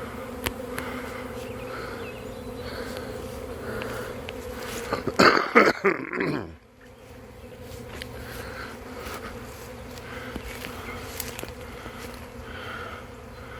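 Honey bee swarm in flight, a dense, steady buzzing hum. About five seconds in a louder buzz sweeps close and falls in pitch before fading.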